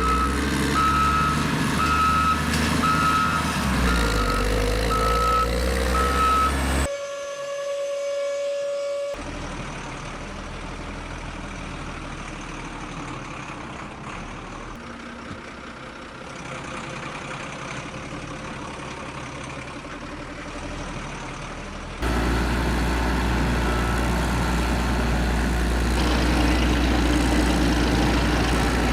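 Truck sounds with a reversing beeper beeping steadily, about seven beeps over the first seven seconds, over a low engine sound. After cuts comes a quieter rumbling stretch, then from about two-thirds of the way in a louder low engine drone.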